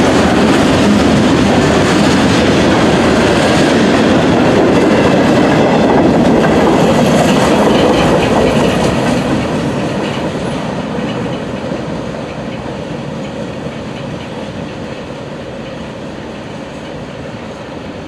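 Freight train rolling past, the steady noise of its cars' wheels on the rails, which dies away gradually over the second half.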